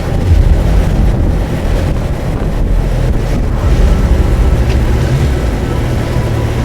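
Suzuki GSX1250FA's inline-four engine running under way, with wind buffeting the microphone.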